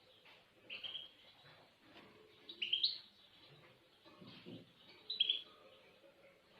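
Small songbird chirping: three short chirps, about two seconds apart.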